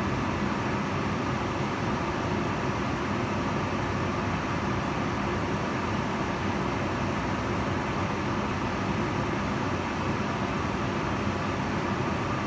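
Kitchen range hood fan running steadily: a constant rush of air with a faint low hum beneath it.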